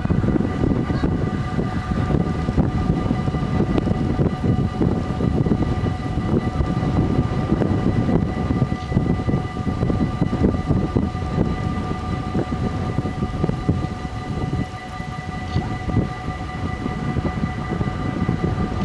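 Trains approaching along an electrified line, heard far off under a heavy, irregular low rumble. A steady high whine of several tones holds unchanged throughout.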